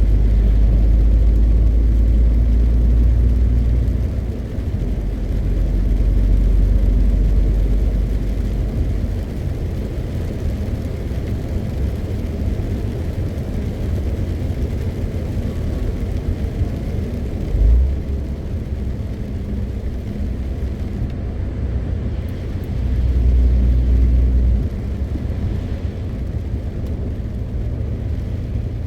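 MAN TGX 520 truck driving: steady low rumble of its diesel engine and tyres on the road, swelling louder three times, with a single low thump a little past the middle.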